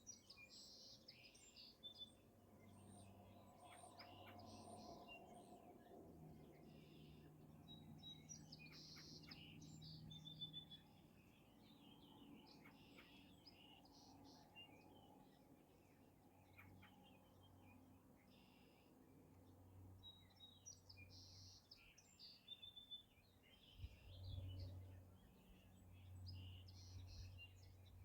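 Faint birdsong: several small birds chirping and trilling on and off, over a low steady background hum.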